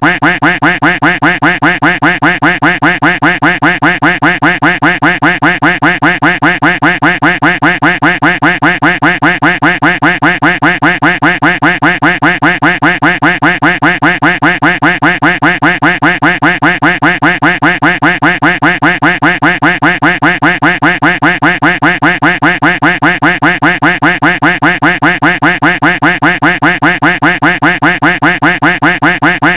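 Duck quack sound effect repeated over and over in an even, unbroken loop, about three to four quacks a second.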